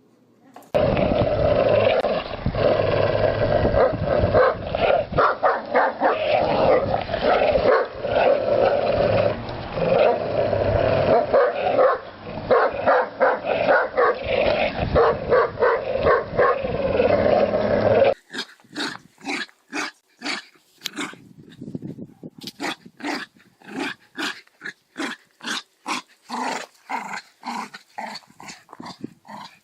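A dog growling steadily while tugging, for most of the first half. After a cut, a dog barks in quick short bursts, about two a second.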